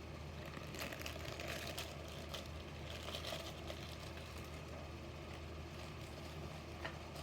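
Faint rustling and light clicks of small objects being handled, over a steady low electrical hum.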